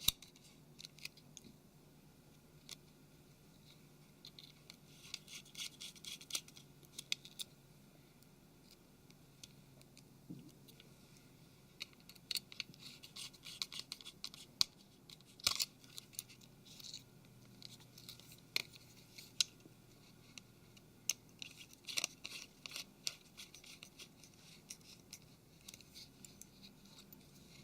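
Small Torx screwdriver driving tiny screws into a Nokia Lumia 720's main board: faint, irregular clicks and scratches of the bit turning in the screw heads, some in quick runs of ticks.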